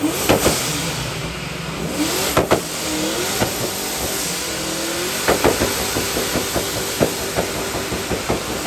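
Small-block V8 engine revved hard again and again through a loud exhaust, its pitch rising and falling, with sharp cracks in clusters between the revs.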